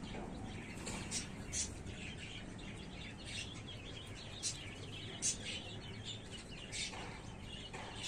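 Small birds chirping in short, scattered calls, about one every half second to second, over faint steady background noise.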